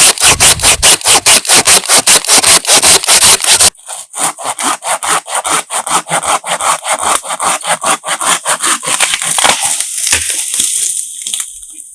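Hand saw cutting through wood with quick, even back-and-forth strokes. A little under four seconds in the sawing drops abruptly to a quieter cut, then keeps going and fades away near the end.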